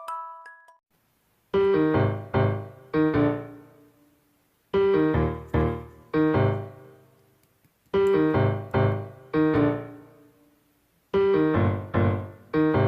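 Background music: a piano playing a song's intro, starting about a second and a half in. It repeats a phrase of three or four struck chords roughly every three seconds, each chord ringing out and fading.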